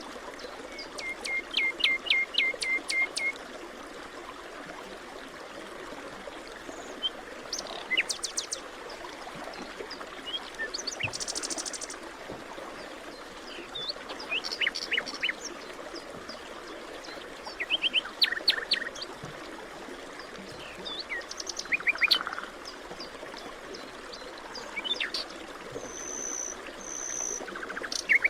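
Forest birds chirping and calling, many short calls scattered through, including a quick run of repeated notes near the start and two high whistled notes near the end, over a steady background hiss.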